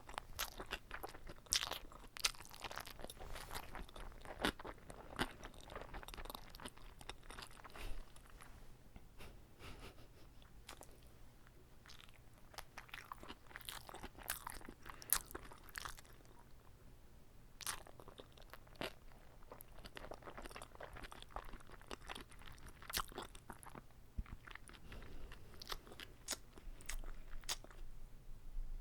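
Close-miked chewing and biting of a whole uncut gimbap roll: a steady run of short, wet clicks and crackles from the mouth.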